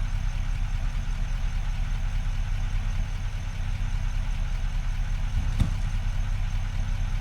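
Truck engine running steadily at low revs as the truck creeps slowly over loose logs, with a single sharp knock about five and a half seconds in.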